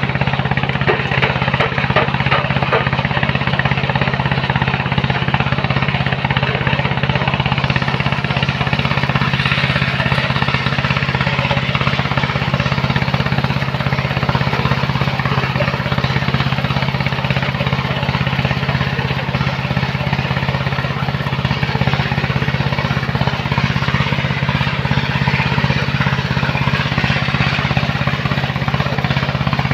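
Engine of a sand-mining machine running steadily at constant speed: a steady low drone with a broad noisy wash over it.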